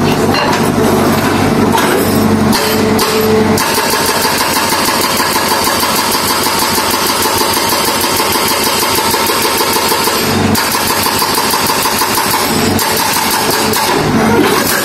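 Heavy road-works machine's engine running under load, with a rapid pulsing and a whine that come in about a quarter of the way in, drop out briefly past two thirds, and return.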